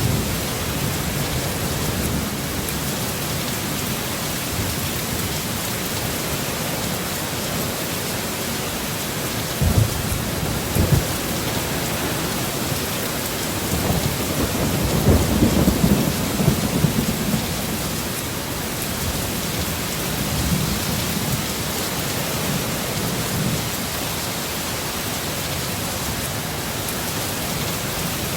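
Heavy rain falling steadily in a storm, with a couple of low thunder thumps about a third of the way in and a longer rolling rumble of thunder near the middle.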